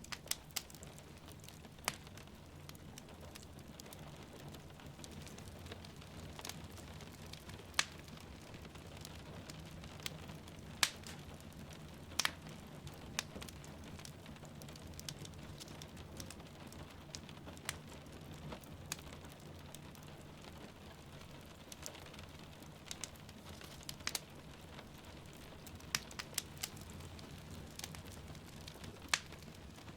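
Wood fire crackling in a fireplace, with sharp irregular pops every second or so, over a steady hiss of rain and a low rumble.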